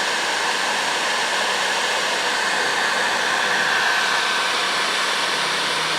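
Heat gun blowing steadily, shrinking dual-wall heat-shrink tubing onto plier handles. It runs as an even rush of air with a faint steady whine.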